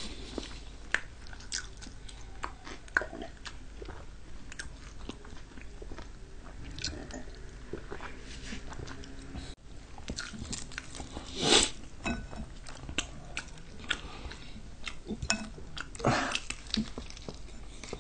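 Close-up chewing and biting of fried chicken and noodles, with crisp crunches and many small sharp mouth clicks. A few louder, longer bursts stand out, the loudest about two-thirds of the way through.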